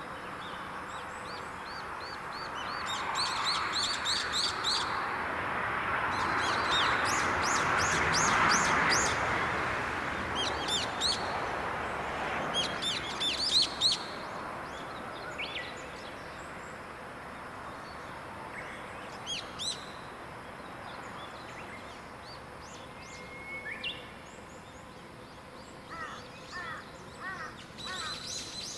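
Wild songbirds singing in short phrases of quick, high, falling notes, several phrases spread through the stretch. Under the birdsong, a rushing noise swells and then fades over the first half.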